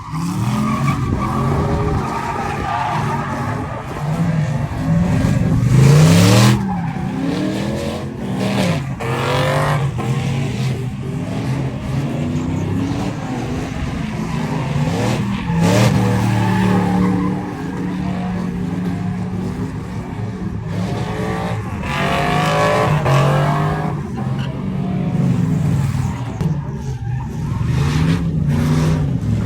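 Truck engine revving up and down again and again, its pitch climbing and dropping every second or two, with loud rushing surges, the biggest about six seconds in, that sound like tyres spinning.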